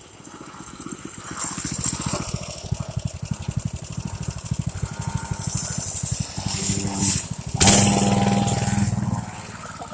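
Dirt bike engine running under throttle, getting louder as the bike comes closer, loudest near the end, then dropping away.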